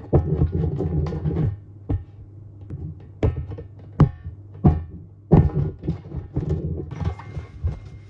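Nike sneakers stepping down on and squashing a cake: a string of irregular dull thuds and squishes over a steady low hum.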